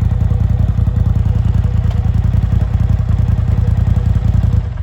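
Motorcycle engine idling close by, a steady low rapid pulsing that stops suddenly near the end.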